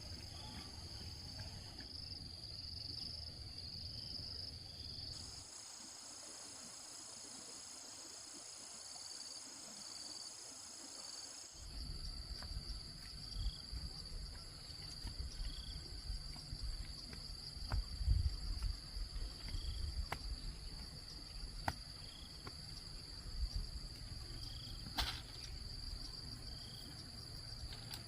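Steady high-pitched insect drone over outdoor background noise, with a low rumble and scattered faint clicks and knocks.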